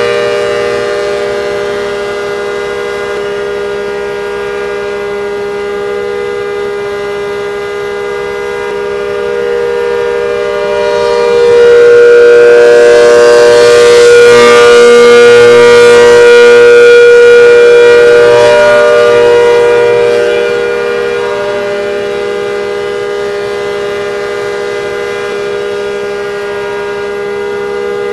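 Old ACA Hurricane civil defense siren sounding a steady chord at a held pitch. It swells louder from a little under halfway through, stays loud for about eight seconds, then eases back down.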